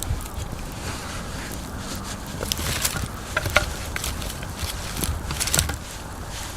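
Campfire crackling, with irregular sharp snaps and pops over a low rumble.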